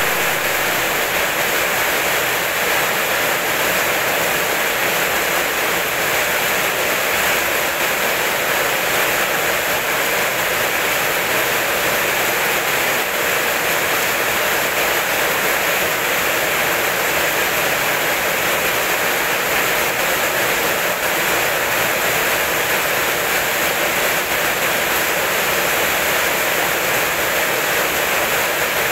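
Heavy rain falling steadily: an even, unbroken hiss with no thunder in it.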